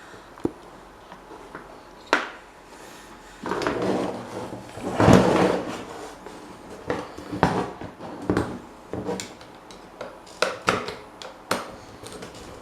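Workshop handling noise: scattered sharp clicks and knocks, a longer scraping or rubbing stretch about four seconds in, then a run of irregular knocks and rattles.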